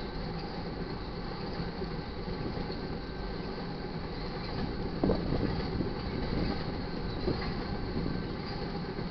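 Crude oil tank train rolling past: a steady rumble of steel wheels on rail, with a louder clank about five seconds in and a smaller one a couple of seconds later.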